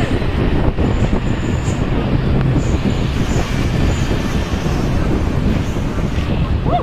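Heavy truck running, a steady low engine and road rumble.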